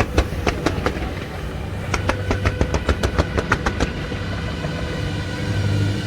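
Fireworks going off in a series of sharp pops and bangs. About two seconds in they come in a quick crackling run of several a second, over a steady low rumble.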